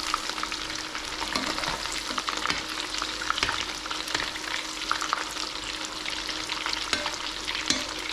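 Chicken bhajis in batter frying in hot oil, a steady sizzle with many small crackling pops.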